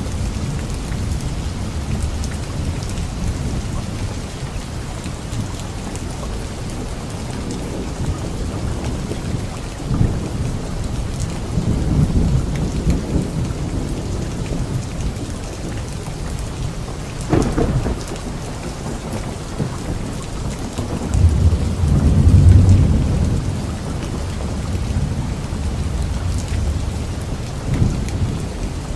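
Steady rainfall hissing throughout a thunderstorm, with several low rolls of thunder. A sharper thunderclap comes a little past halfway, and the loudest, deepest rumble about three-quarters of the way through.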